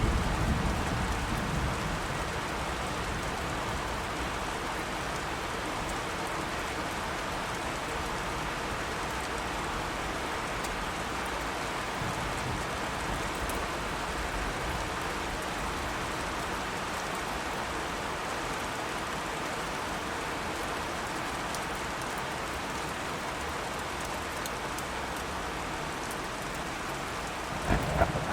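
Steady heavy rain falling. A thunder rumble fades out over the first couple of seconds, and another low rumble of thunder starts near the end.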